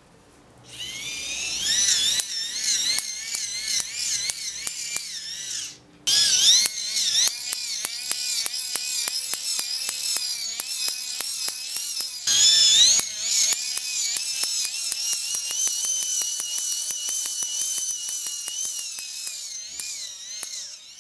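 Small geared microwave turntable motor cranked by hand as a generator, whining high with a pitch that wavers as the cranking speed changes, stopping briefly about six seconds in and then going on. Through the whine comes a rapid series of sharp snapping clicks, a few a second, typical of high-voltage sparks jumping at the output of a voltage multiplier.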